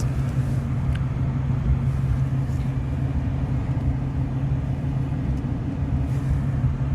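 Steady low rumble of a car heard from inside the cabin, engine and road noise running evenly.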